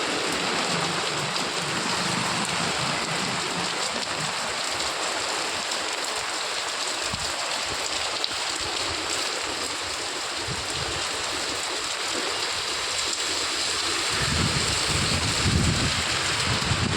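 Heavy rain falling steadily, an even hiss. Near the end a low rumble joins it.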